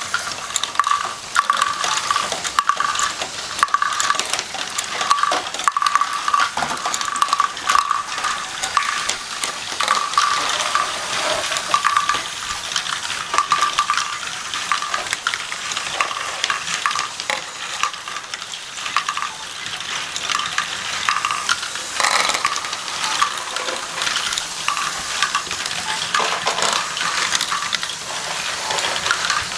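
Small hard plastic pieces, such as Lego bricks, clicking and rattling continuously. An intermittent high tone pulses through roughly the first half.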